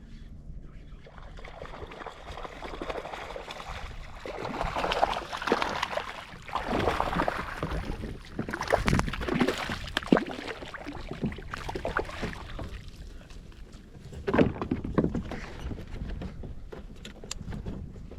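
Water sloshing and splashing against a kayak in uneven surges every second or two, with scattered sharp knocks.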